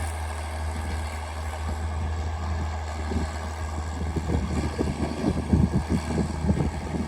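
Straight-piped John Deere 4630 tractor's six-cylinder diesel running steadily under load, a low even drone. From about three seconds in, irregular gusts of wind buffet the microphone.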